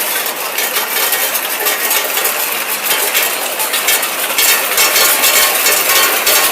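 Plastic cap lining machine running: a continuous rapid clatter of plastic caps knocking against each other and the machine's feed parts, a little louder from about four seconds in.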